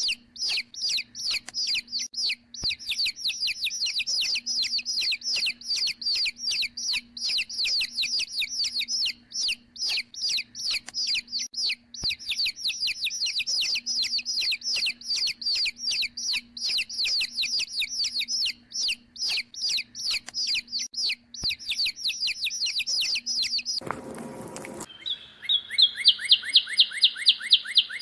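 A bird chirping rapidly, a run of short falling chirps several times a second. Near the end a brief noisy burst, then a faster, louder, higher trill.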